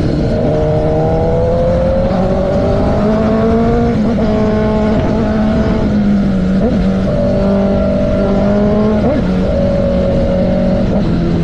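Motorcycle engine running steadily under way. Its pitch climbs slowly and dips briefly a few times, about four, seven and nine seconds in.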